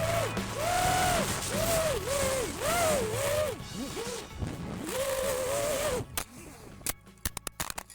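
Brushless motors of a Realacc X210 racing quadcopter whining, their pitch swooping up and down every half second or so as the throttle works, over low wind buffeting. About six seconds in the motors cut out, followed by a quick series of sharp clicks.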